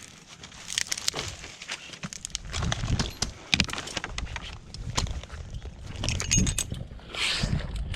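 Eucalyptus branches and leaves rustling and snapping, with irregular knocks and a short hissing rustle near the end.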